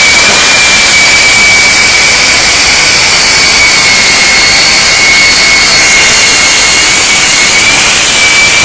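Jet engine of a jet-powered semi truck running steadily and very loud: a dense roar with a steady high-pitched whine over it.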